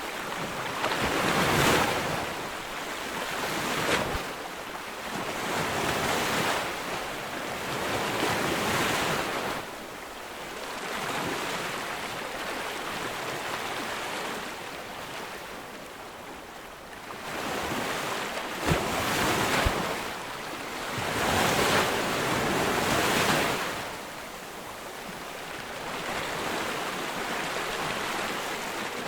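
Ocean waves breaking on a beach, the surf swelling and easing in repeated surges every few seconds, with a louder break about a fifth of the way in and a long loud one around three quarters of the way through.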